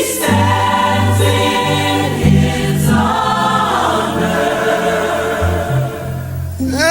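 Gospel choir singing held chords in harmony over instrumental accompaniment with a steady bass line.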